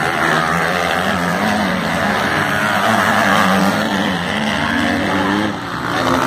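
Motocross bikes racing, their engines revving up and down in pitch as riders work the throttle around the track.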